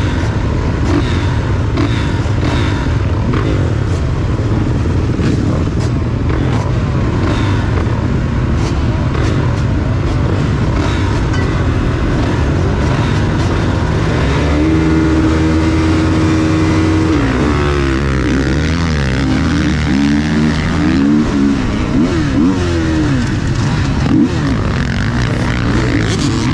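Motocross bike engines running and revving. About fifteen seconds in, a pitch holds steady for a few seconds, and from about seventeen seconds in several engine pitches rise and fall, as in revving and shifting.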